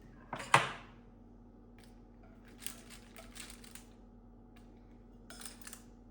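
Dishes and cutlery clinking: one sharp, ringing clink about half a second in, then a few lighter clicks and taps around three seconds in and again near the end.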